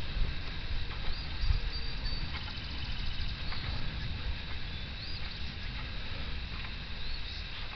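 Wild birds calling: short rising chirps repeated every second or two, with a brief rapid trill about three seconds in, over a steady low rumble.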